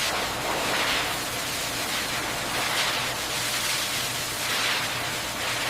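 Steady rushing, hiss-like processing-machinery noise with a faint low hum beneath it, swelling slightly every second or two.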